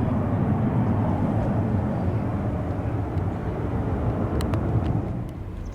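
Jet noise from a departing KLM Embraer E175's twin turbofan engines, a steady deep rumble that drops away suddenly about five seconds in.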